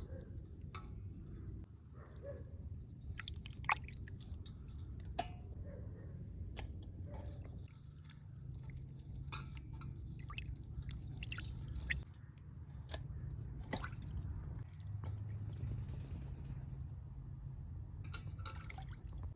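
Hand food-preparation sounds: irregular small clicks and soft wet handling noises over a steady low hum.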